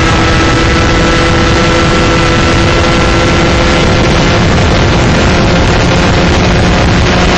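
125cc shifter kart's two-stroke engine running at speed under loud, steady wind rush. Its note sags slightly over the first few seconds, and a lower note comes in about five seconds in.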